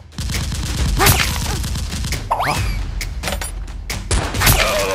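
Volleys of gunfire sound effects, many sharp shots and impacts in quick succession, over background music with a steady low beat.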